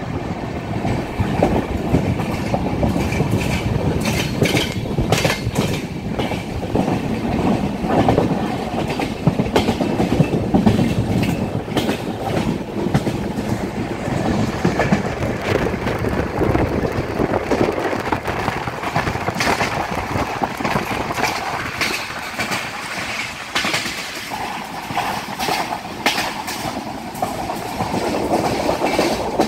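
Passenger train running at speed, heard from on board: a steady rumble of wheels on rail, with the clickety-clack of wheels going over rail joints.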